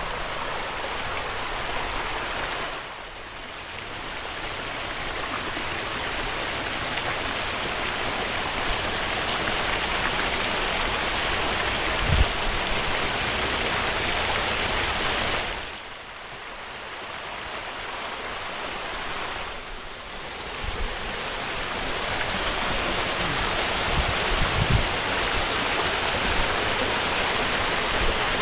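Small spring-fed waterfall splashing over limestone: a steady, full rush of falling water, swollen by heavy rain. It drops away briefly three times, and a few low bumps sound over it.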